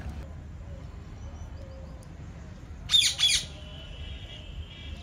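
A bird gives two short, harsh squawks in quick succession about three seconds in, over a low steady background rumble.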